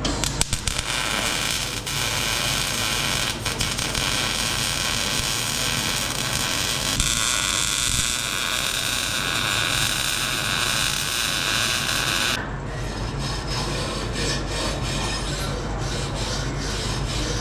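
A power tool cutting or grinding sheet metal, a steady harsh noise that stops suddenly about 12 seconds in, followed by lighter clicks and clatter of metal being handled.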